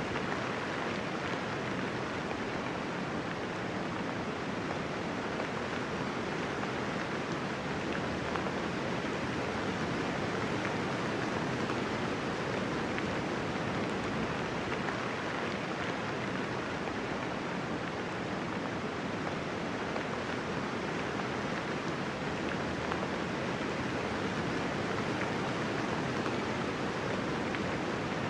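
Steady rain falling, an even dense patter with no thunder.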